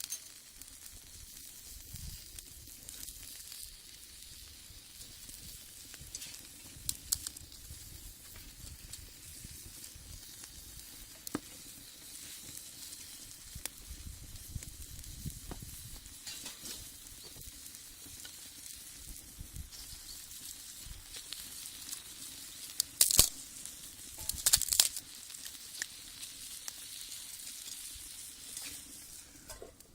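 Food sizzling in a cast-iron skillet over a wood fire in a brick rocket stove: a steady hiss with scattered small pops, and two short louder noises about three-quarters of the way through.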